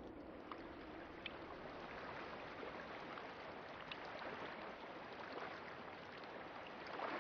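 Water splashing and gurgling in a steady rush, with small drips and ticks scattered through it and a louder splash near the end.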